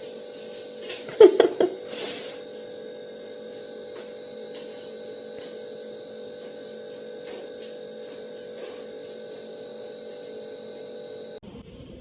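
A steady electrical hum, with a short cluster of sharp knocks about a second in.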